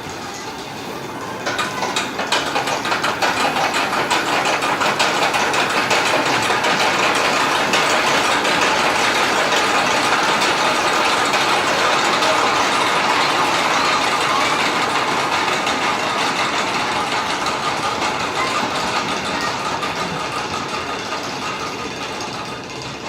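Suspended roller coaster train running along its track: a steady rushing rumble with rapid rattling clatter. It swells about a second and a half in and fades near the end.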